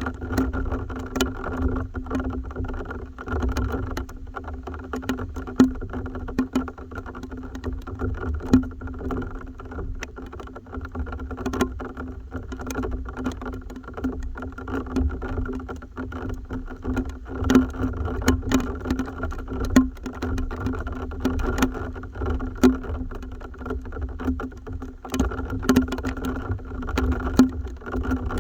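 Raindrops pattering in irregular, sharp ticks over a steady low hum.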